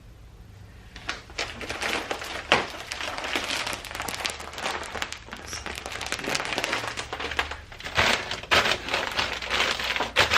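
Crinkling and rustling of food packaging as pantry items are handled and put away, with sharp knocks of containers set down, the loudest about two and a half seconds in and a few more near the end.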